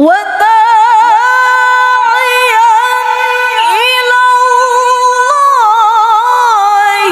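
A woman reciting the Quran in the melodic tilawah style, holding one long high note with fast wavering ornaments. The voice comes in suddenly with a rising glide, steps briefly higher about five seconds in, then settles back down.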